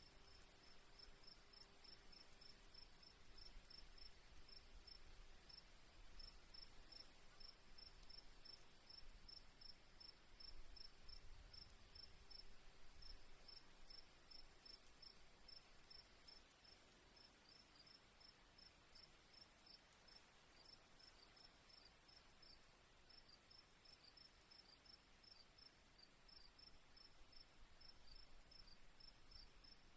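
Faint crickets chirping: one steady high trill with a second cricket's rapid, evenly spaced chirps, about four a second, under it.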